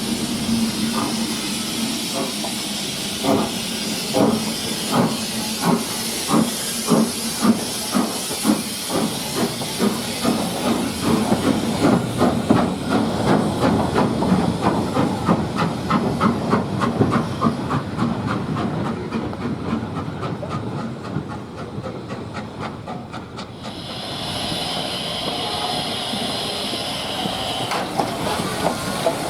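Steam locomotive pulling away, its exhaust beats quickening from about one and a half to about four a second, with a hiss of steam that fades as it gets going. A fresh steady hiss of steam comes in near the end.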